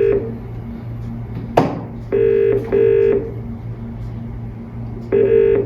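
British telephone ringing tone, the double 'ring-ring' a caller hears while the called phone rings, played through a mobile phone's loudspeaker. Two full double rings sound, with a low hum on the line under them and a single sharp click about a second and a half in.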